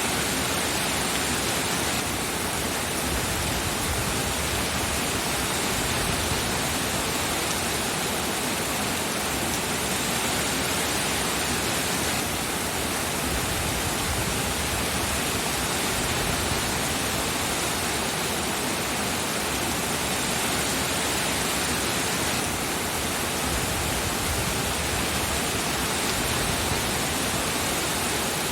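Steady, even hiss of heavy rainfall.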